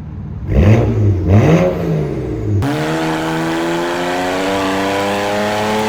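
BMW E93 335i inline-six with catless downpipes and a muffler delete, blipped up twice in quick succession. After an abrupt cut it is accelerating steadily under load, its pitch slowly climbing over road noise.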